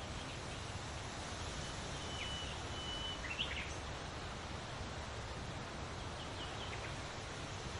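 Outdoor morning ambience: a steady noise bed with a low rumble, over which birds give a few short high calls, including two flat whistled notes, one brief louder call near the middle and a few short notes near the end.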